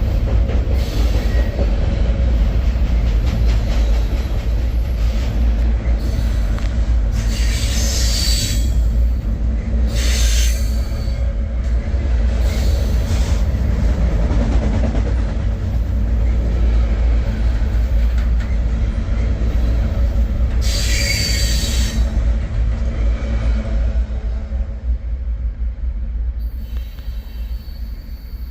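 Freight train rolling, heard from aboard: a loud steady rumble of the cars, with short bursts of higher-pitched metallic noise about eight, ten, thirteen and twenty-one seconds in.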